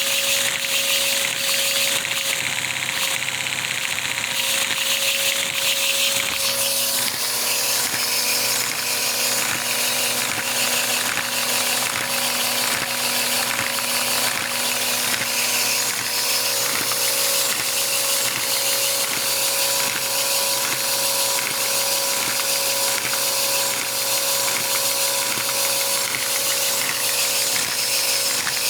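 Three-cylinder cammed Lego vacuum engine running steadily, its plastic mechanism whirring and clicking in an even rapid rhythm. A high hiss fades about seven seconds in.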